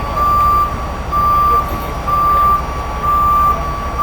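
Heavy truck's reversing alarm beeping about once a second, one steady high tone, over the low running of a truck engine.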